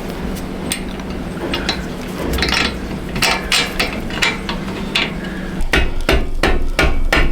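Rubber mallet tapping greased bolts and engine parts into place in a motorcycle frame: a string of irregular knocks, coming thicker and closer together in the last second and a half.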